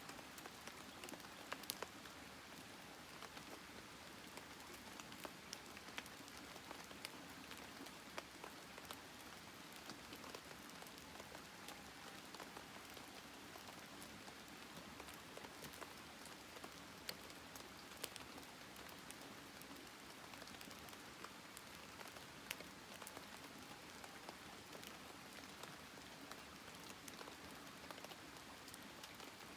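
Faint crackling of a wood campfire: a steady low hiss with scattered sharp pops and snaps at irregular moments.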